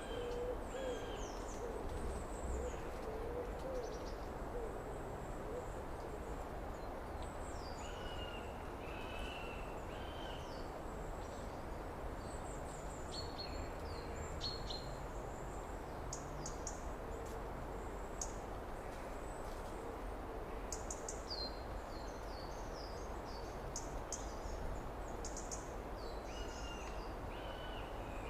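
Summer outdoor ambience of birds calling: a low, wavering call repeated through the first five seconds and faintly again later, with many short high chirps and trills throughout, over a steady background noise.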